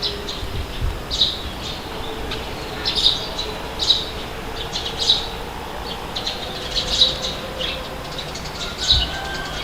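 Small birds chirping, short sharp calls about once a second, over a steady rush of wind with occasional low gusts.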